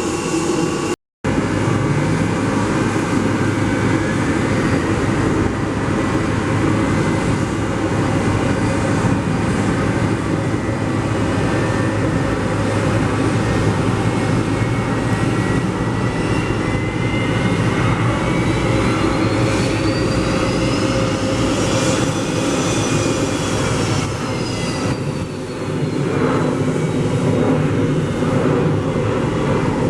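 Jet airliner engines running loud and steady, with a high whine that climbs in pitch and then falls away again about two-thirds of the way through. A momentary cut to silence comes about a second in.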